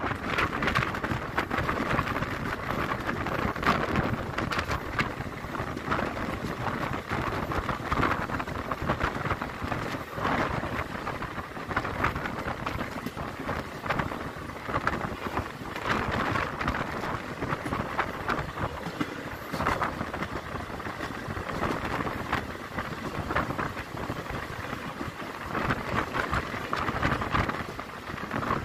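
Passenger train running along the track, heard from an open coach window: a steady rush of wind and wheel noise with frequent clattering of the wheels on the rails.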